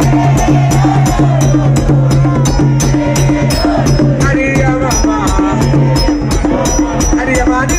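Live band music: sharp percussion ticks about three to four a second over a held bass note, with a gliding melody line on top.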